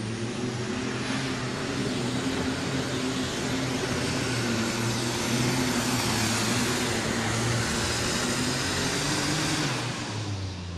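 Alcohol-burning super stock pulling tractor (a Case IH MX 270) under full power hauling the sled down the track, its engine note wavering as it pulls. Near the end the sound drops away as the pull ends.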